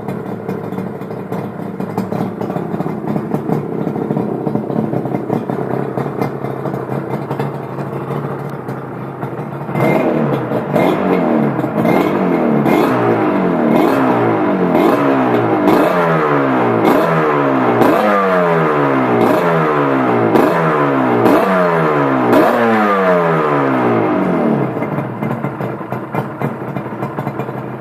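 Yamaha RD350 two-stroke twin idling through aftermarket Dogster exhausts, then blipped about a dozen times in quick succession, each rev shooting up and dropping straight back, before settling to idle again near the end.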